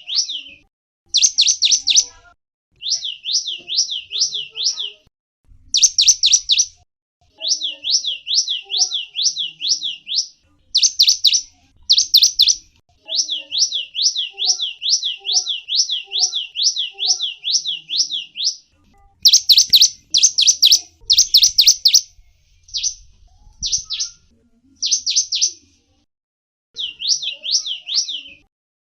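A gelatik wingko songbird singing: phrases of rapid, high, down-slurred chirps, about five a second, repeated over and over with short pauses between them.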